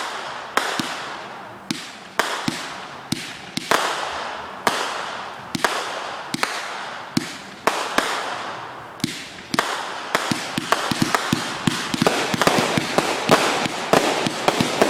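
Consumer fireworks going off at close range: sharp bangs about once a second, each fading away, then quickening into a rapid run of pops about ten seconds in.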